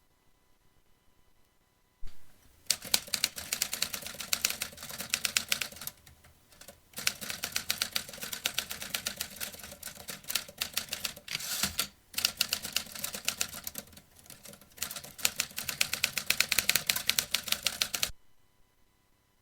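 Vintage typewriter being typed on: rapid runs of key strikes clacking, broken by short pauses. The typing starts about two seconds in and stops near the end.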